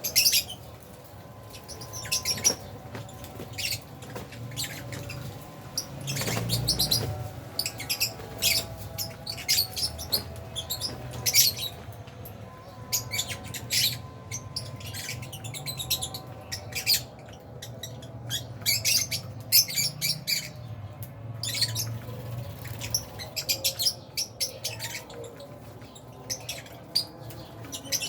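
A flock of Fisher's and albino lovebirds chirping and squawking, short sharp calls overlapping throughout, over a steady low hum.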